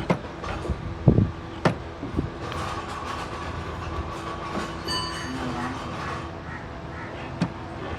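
Sharp metal knocks, then a steady high metallic squeal lasting about three and a half seconds, over a constant background hum.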